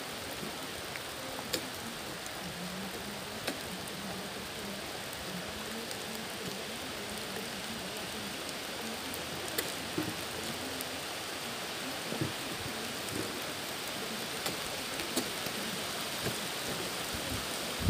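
Heavy rain falling steadily: an even hiss, with a few faint knocks here and there.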